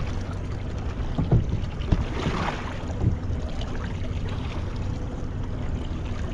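Water sloshing and splashing against a small fishing boat's hull over a steady low rumble of wind and motion, with a few short knocks in the first three seconds.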